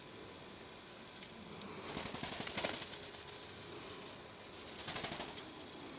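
A grackle's wings flapping in two short bursts of rapid wingbeats, the first about two seconds in and the second about five seconds in. A faint steady high insect buzz runs underneath.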